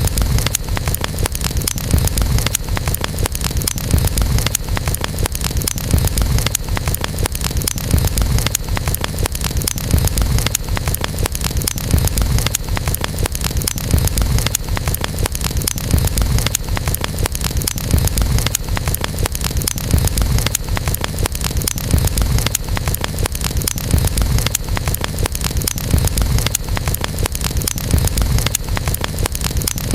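Campfire burning, with dense small crackles over a steady low rumble of flames, swelling slightly about every two seconds.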